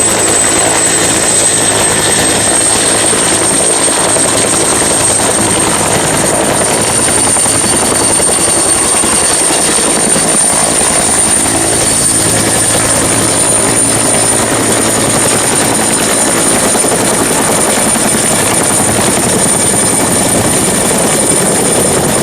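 Helicopter sound: steady rotor and engine noise with a high whine that rises slightly over the first few seconds, then holds level.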